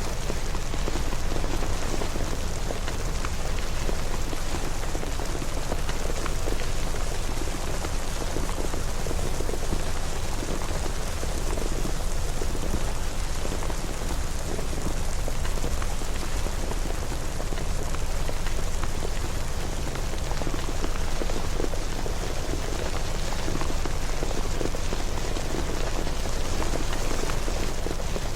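Steady rain falling, an even patter of drops with a constant low rumble underneath.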